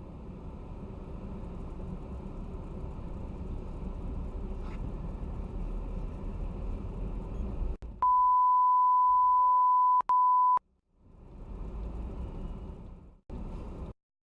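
Low, steady road and engine rumble heard from inside a vehicle. About eight seconds in, it gives way to a loud, steady, high single-pitch bleep lasting about two and a half seconds, broken once very briefly, with a faint voice under it. The rumble then returns, with short cuts, and stops abruptly near the end.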